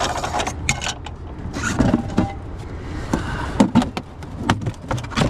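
Things in a car's trunk being moved and rummaged through: scattered irregular knocks, clatters and rustling.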